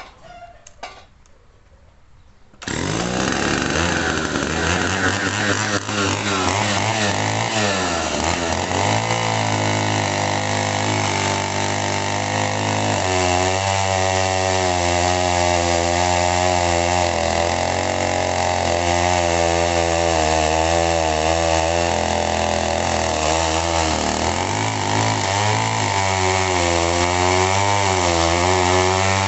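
Two-stroke chainsaw cutting eucalyptus logs. It comes in suddenly about two and a half seconds in and runs loud and steady, its engine pitch sagging under load twice and recovering.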